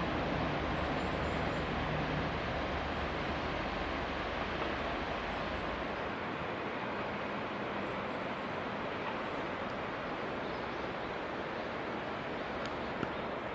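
Train running noise: a steady rush with a low rumble that fades away about six seconds in, leaving a steady rushing hiss.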